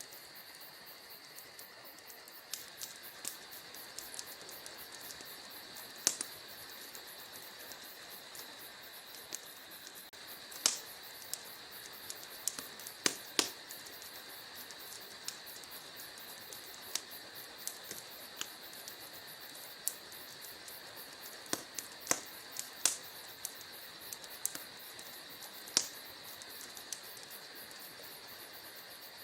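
Wood fire crackling: a steady soft hiss with irregular sharp pops and snaps, a few of them much louder than the rest.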